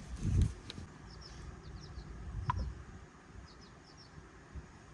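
Faint bird chirps, short high notes in quick pairs and clusters, with one thin falling whistle in the middle. A low bump of handling comes right at the start.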